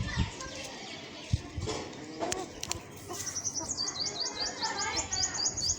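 A small bird singing a rapid series of high, repeated chirps that begins about three seconds in, with a few sharp clicks before it.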